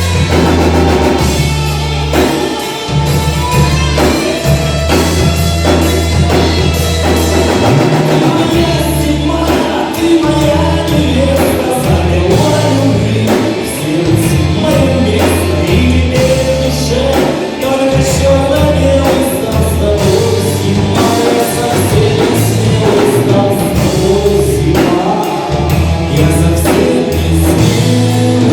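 A live rock band playing an instrumental passage between choruses, with bass and drums under a moving melodic lead line.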